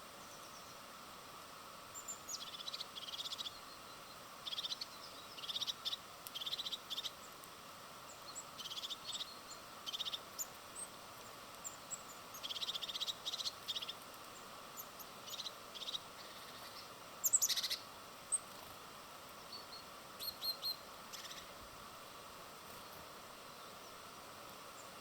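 Small birds chirping at a feeder: many short, quick high chirps in scattered runs over a faint steady background hiss, the loudest about two-thirds of the way in, then they fall silent.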